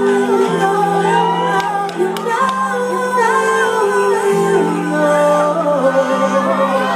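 Live band holding slow, sustained chords that change about every two seconds, with a woman singing wordless runs over them.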